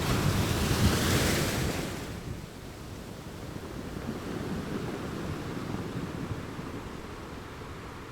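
Ocean waves breaking on the shore: a wave crashes and hisses loudly in the first two seconds, then fades into a lower rumbling wash of surf. Wind buffets the microphone.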